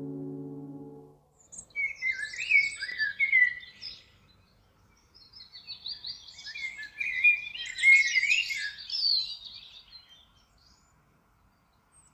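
A small songbird singing in two bouts of quick, varied warbling and chirping, a short phrase followed by a longer one, as a sustained music chord fades out about a second in.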